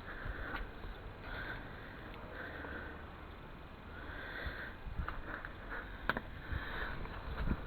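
A person breathing and sniffing close to the microphone, in soft puffs about once a second, with a few small clicks and knocks about five to six seconds in.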